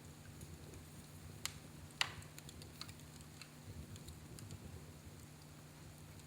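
Fireplace fire crackling faintly: two sharper pops about one and a half and two seconds in, then scattered small ticks, over a low steady hum.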